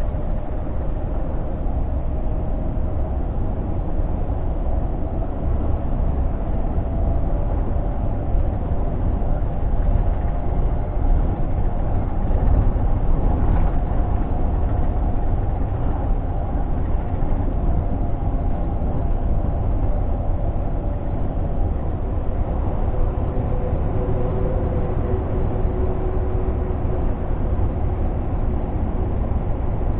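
Scania G460 truck's 13-litre six-cylinder diesel running under way, heard from inside the cab as a steady low rumble with road noise. A faint whine rides over it, drifting slightly and dropping lower about three-quarters of the way through.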